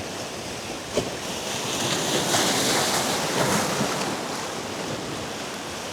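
Ocean surf washing in, with wind on the microphone. The wash swells about two seconds in and eases off again, and a single click sounds about a second in.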